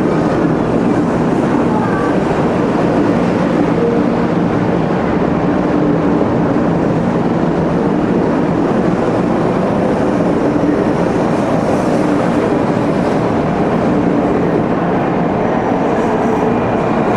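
500-series Shinkansen train pulling out of the station along the platform, a steady loud running noise.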